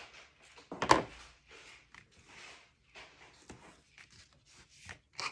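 Paper and cardstock being handled and rubbed on a work table, a run of short rustles and scrapes with one sharp knock about a second in.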